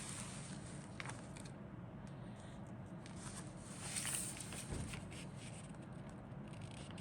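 Handling noise of plastic kit parts and packaging: light rustling and a few sharp clicks, with a swell of rustling about four seconds in, over a steady low hum.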